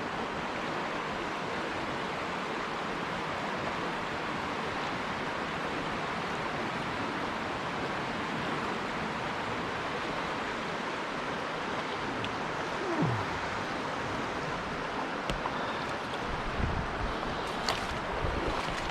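Steady rush of a river's flowing water, with a few faint knocks and low bumps near the end.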